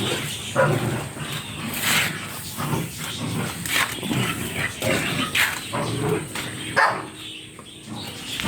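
An animal calling in short, irregular bursts, about one or two a second.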